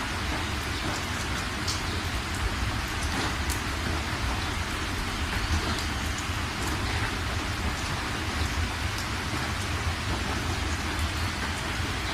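Steady rain falling on surfaces, an even hiss with scattered distinct drop ticks over a low continuous rumble.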